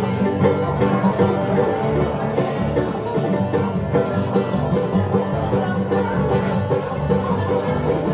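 Live bluegrass band playing the instrumental opening of a song, banjo picking over guitar and a steady bass line.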